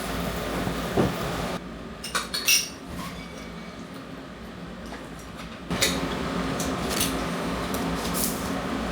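A few light clinks of tableware, like dishes or utensils being set down, over a steady room hum. The background drops away abruptly a little under two seconds in and comes back about two-thirds of the way through.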